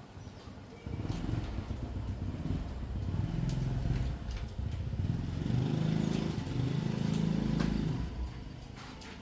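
A motorbike engine running nearby. It comes up about a second in, its pitch shifts up and down, and it dies away near the end.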